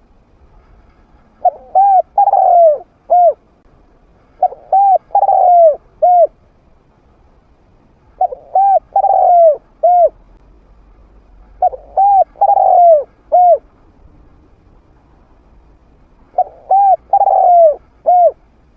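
Spotted dove cooing: five phrases a few seconds apart, each two short coos, a longer coo falling in pitch, then a final short coo.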